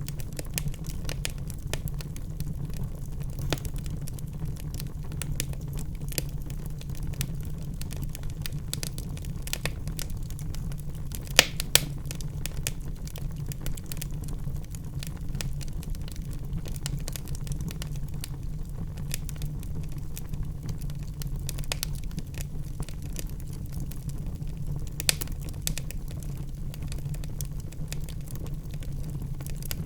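Wood fire burning in a fireplace: a steady low rumble of the flames with constant small crackles, and two loud pops close together about a third of the way through.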